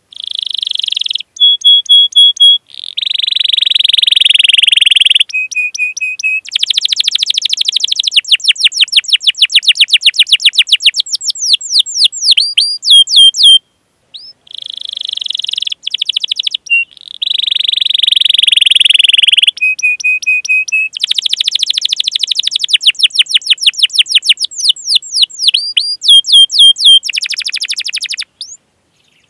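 Domestic canary singing a long, loud song: buzzy rolls, fast rattling trills and runs of sweeping chirps ('cuit cuit'), with short level whistled notes between. The same run of phrases comes round twice, about halfway through.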